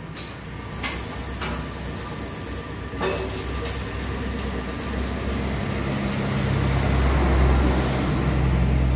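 A vehicle engine running, its low hum growing louder from about four seconds in, with a few sharp knocks and clicks in the first three seconds.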